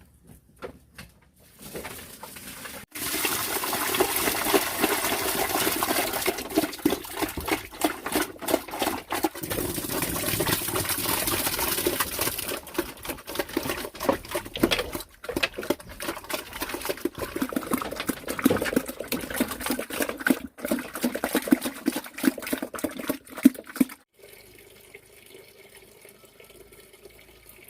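Water pouring and splashing for about twenty seconds, then stopping abruptly.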